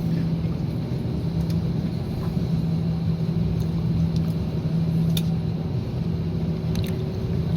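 Steady low vehicle rumble with a constant droning hum, and a few faint clicks.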